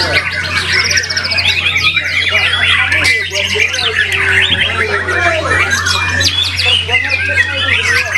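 White-rumped shama singing without pause, a dense, rapid stream of varied whistles, trills and sweeping notes. A steady low hum runs underneath.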